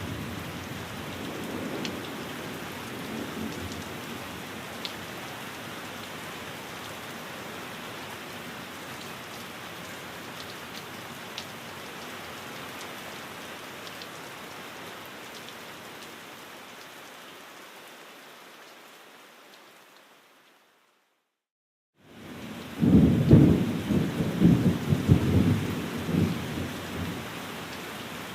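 Steady rain with low thunder rumbles. About three-quarters of the way through it fades out to complete silence, then fades back in with a loud low rumble of thunder before the steady rain resumes.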